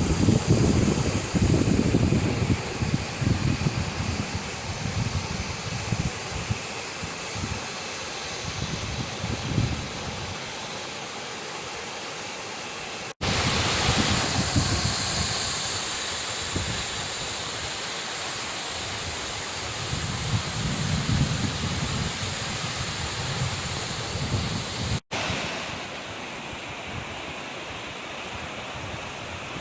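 Waterfall rushing in a steady hiss of falling water, with wind gusting on the microphone as low rumbles. The sound breaks off for an instant twice.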